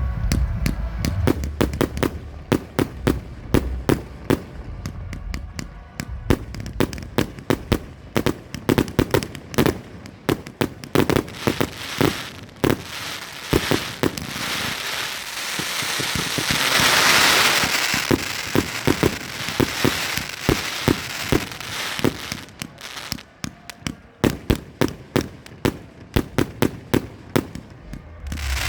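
A 200-shot firework cake firing: a rapid, uneven string of sharp bangs, with a stretch of dense crackling from crackling mines about halfway through.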